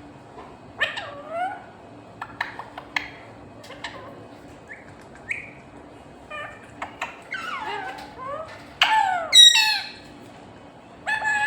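A pet parrot calling: a string of short chirps, clicks and gliding whistle-like calls, with the loudest, harsh squawk about nine seconds in and another call near the end.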